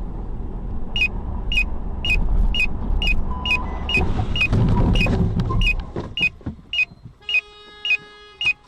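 Road vehicle rumbling, loudest around the middle, then fading, with a short, high tick-beep repeating about twice a second over it. Near the end a steady chime-like tone sounds for about a second.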